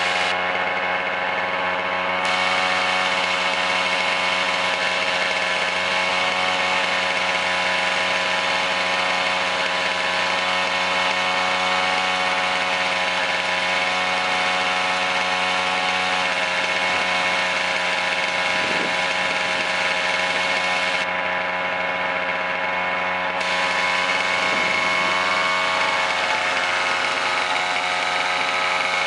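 1965 Sachs 47cc single-cylinder two-stroke stationary engine running at a steady speed. The owner says this engine does not run properly.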